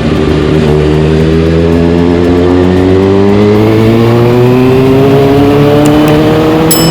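Kawasaki Ninja ZX-6R's inline-four through a carbon fiber Delkevic exhaust, under steady throttle, its note rising slowly and evenly as the bike accelerates in one gear.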